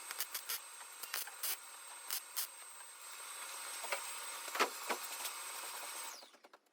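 A power tool running with a steady high whine and scratchy clicking contact, then winding down with a falling pitch about six seconds in.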